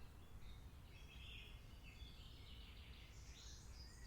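Rainforest soundscape: faint bird calls and chirps at several pitches, one after another, over a low steady rumble.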